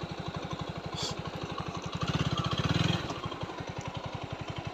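Single-cylinder motorcycle engine of a TVS Apache 4V idling with an even, steady beat, about twelve pulses a second. A click comes about a second in, and the sound is briefly louder for about a second midway.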